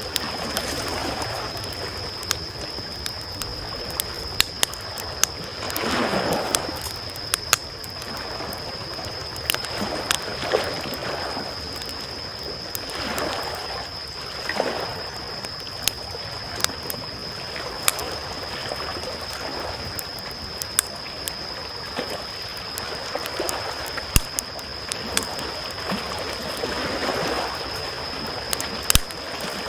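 Small waves lapping on a shore, washing in every few seconds, while a wood campfire crackles with scattered sharp pops. A steady high-pitched tone runs underneath throughout.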